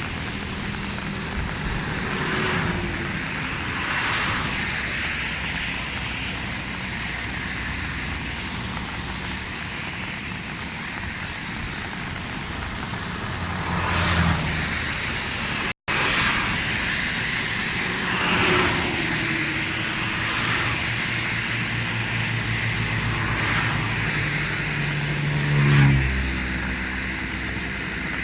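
Road traffic: a steady engine hum with several vehicles swelling past one after another.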